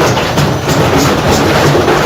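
Washing machine running at full speed with a heavy stone battering around inside it: a loud, continuous rhythmic clatter of knocks, about three or four a second.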